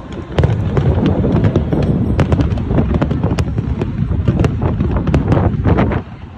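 Fireworks display: a dense run of crackling pops and sharp reports over a continuous low rumble of bursts, dropping off about six seconds in.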